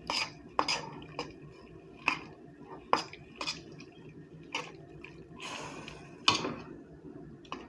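A knife stirring cut-up chicken in taco seasoning and water in a pan: irregular clinks and knocks of the blade against the pan, with wet slopping of the liquid.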